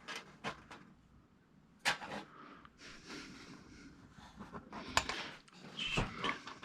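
Light clicks and scraping from small, fragile plastic lens caps being handled and pressed onto a TV's LED backlight strip. The sharpest click comes about two seconds in, with more clicks around five and six seconds.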